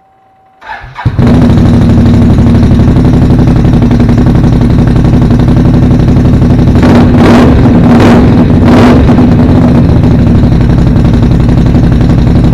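2018 Can-Am XMR 570 V-twin engine starting through a newly fitted GSE Performance aftermarket exhaust. A brief crank, then it catches and runs loud and steady, with a few quick throttle blips about halfway through.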